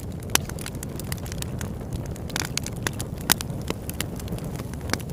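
Campfire crackling: irregular snaps and pops over a steady low rumble, the sharpest pops about half a second in and just past three seconds.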